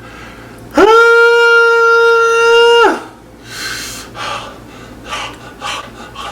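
A man's voice holding one long, high, steady note for about two seconds, sliding up into it and dropping off at the end. Several short breathy puffs follow, the breathing of someone whose mouth is burning from spicy food.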